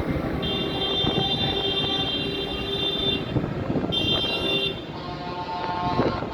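Tractor engines running as decorated tractors pass in procession. A high-pitched sustained tone sounds over them for about three seconds, stops, and sounds again briefly about four seconds in.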